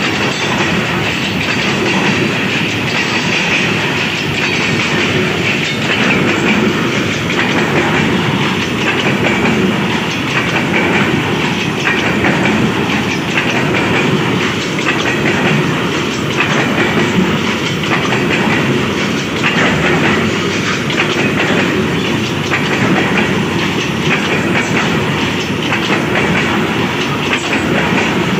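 Fully loaded covered hopper wagons of a long coal train rolling past at close range, their steel wheels clacking over the rail joints in a steady repeating rhythm.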